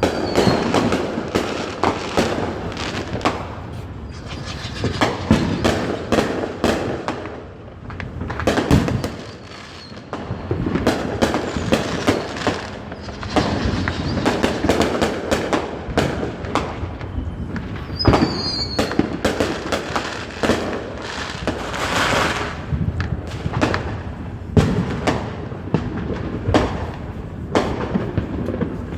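Fireworks going off continuously: a dense run of bangs and booms with crackling between them, and a brief high whistle about 18 seconds in.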